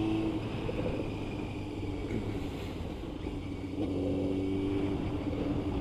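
Motorcycle engine running under way over a steady rush of wind and road noise. Its note drops away in the first second and comes back about four seconds in, rising slowly as the bike pulls again.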